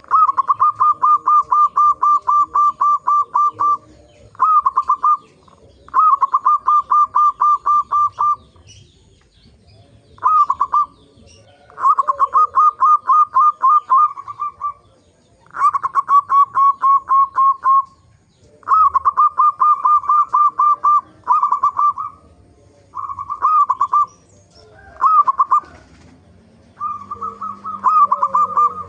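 Zebra dove (local perkutut) calling in a run of rapid, evenly spaced cooing notes, about four a second, in about ten bouts broken by short pauses.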